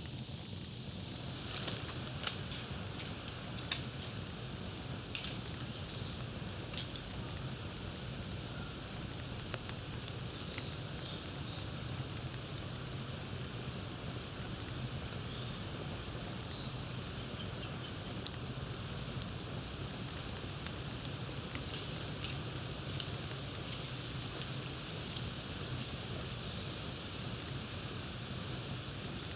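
Campfire crackling: a steady hiss of burning wood dotted with frequent sharp pops and snaps, a few of them louder.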